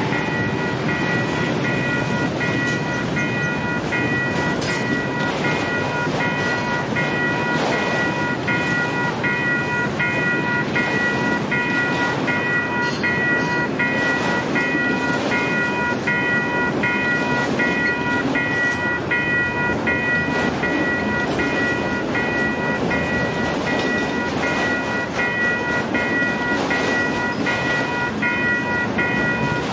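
Autorack freight cars rolling past at speed with a steady rumble of wheels on rail. Over it, a ringing tone repeats evenly and quickly throughout.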